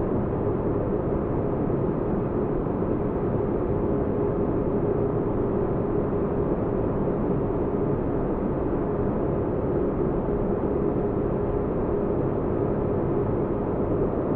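Sci-fi spaceship-interior ambience: white noise with a deep bass rumble and a faint steady hum, unchanging.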